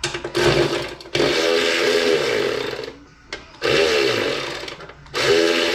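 Electric power tool run in four trigger bursts of one to two seconds each, its motor pitch dipping under load, as it turns bolts on the wood chipper.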